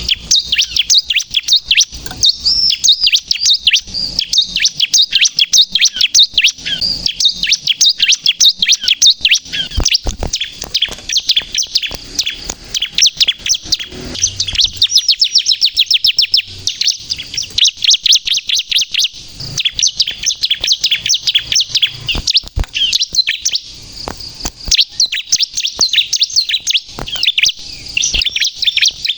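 Bar-winged prinia (ciblek, 'crystal' colour variety) singing vigorously in a long, continuous run of rapid, high-pitched chirping notes, many a second, with only brief pauses.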